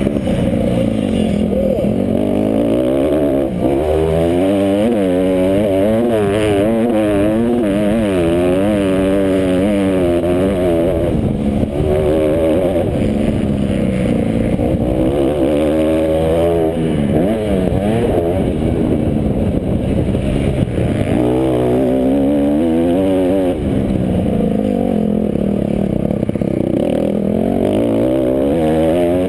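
Motocross bikes racing, their engines revving up and down through the gears, with overlapping rising and falling engine notes and no break.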